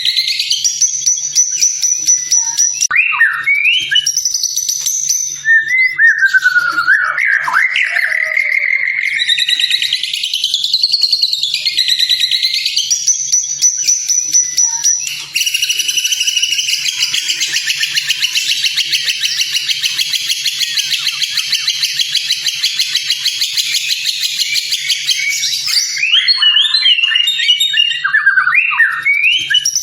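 White-rumped shama (murai batu) singing without a break: loud, varied whistled phrases that sweep up and down in pitch. About halfway through comes a long, fast rattling trill of some ten seconds, followed by quick short notes.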